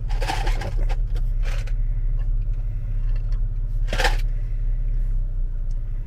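Steady low rumble of a car cabin on the move, with a few brief scraping, rustling handling noises, the strongest about four seconds in.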